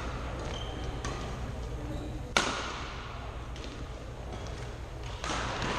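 Two sharp smacks of a badminton racket striking a shuttlecock, echoing in a hall. The first, about two and a half seconds in, is the louder; the second comes about three seconds later.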